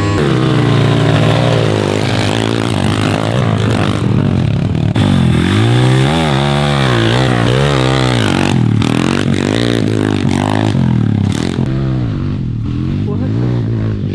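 MRF 140 TTR pit bike's single-cylinder engine revving, its pitch rising and falling again and again as the throttle is opened and closed.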